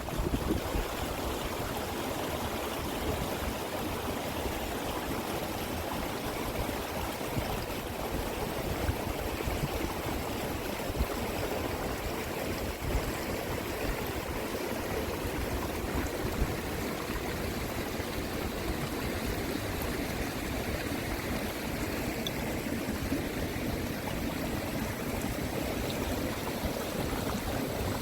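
Steady rushing of running water, as from a stream flowing over rocks.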